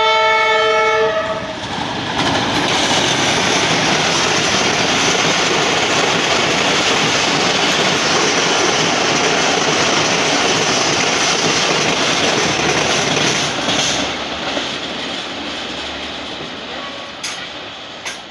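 A diesel locomotive's horn sounds and cuts off about a second in. Then an express train passes at speed, a long steady rush of wheels and coaches on the track that fades away over the last few seconds.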